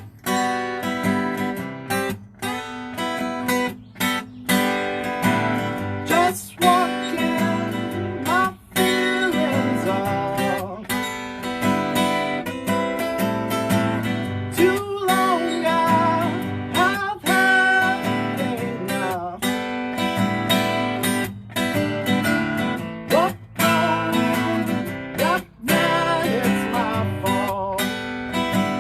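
Acoustic guitar strummed in a steady rhythm, playing a song's chords, with a brief break in the sound about every two seconds as the chords change.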